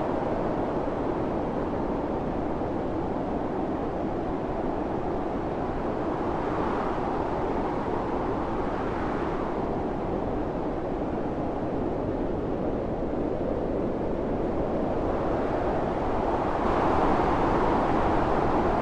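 Strong wind blowing steadily in a snowstorm, swelling in gusts now and then, strongest near the end.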